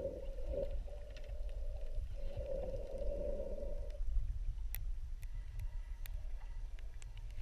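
A boat motor drones steadily over a low rumble of water and cuts off about four seconds in. A few sharp clicks follow.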